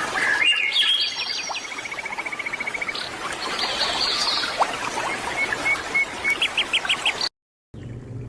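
Several birds calling and singing over a steady hiss, with a rapid trill of evenly repeated notes and, near the end, a run of five quick rising notes. The sound cuts off abruptly about seven seconds in, and a different noisier sound with a low hum follows.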